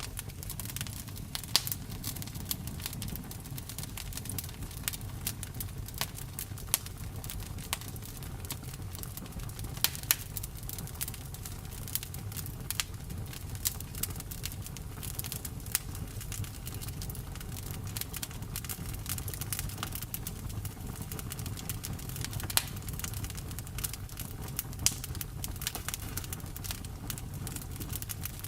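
Campfire burning: a steady low rumble of flames with frequent sharp crackles and pops, a few of them louder.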